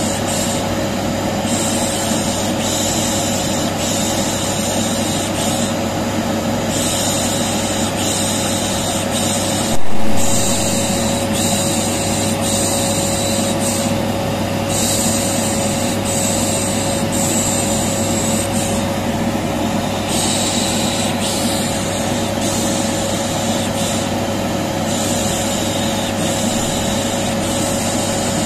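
Vacuum cleaner motor running steadily, with a hissing 'shh shh' shushing laid over it that comes and goes every second or two, a continuous soothing sound for a colicky baby. A sudden loud knock about ten seconds in.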